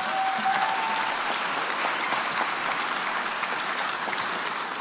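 Audience applauding, a steady patter of many hands clapping that eases slightly toward the end.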